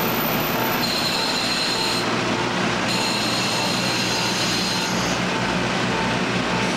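KiHa 185 series diesel railcar running along the line, heard from inside the train: a steady engine drone over the rumble of wheels on rail. A high steady whine comes in about a second in and drops out, then returns and fades again before the end.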